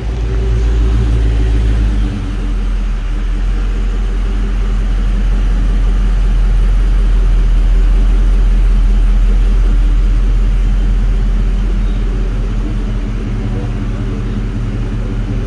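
Dodge Charger Scat Pack's 392 Hemi V8 idling with a steady deep rumble; the rumble drops a little in pitch about two seconds in, then holds.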